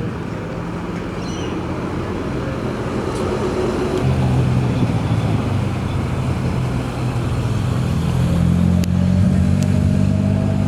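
Car engines running at low speed as cars roll past, with tyre and road noise. The engine note gets louder about four seconds in and again near the end.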